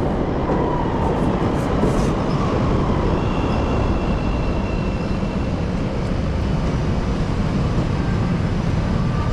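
Chicago 'L' Green Line train running, a steady rumble of wheels on the rails, with a faint high whine for a couple of seconds about three seconds in.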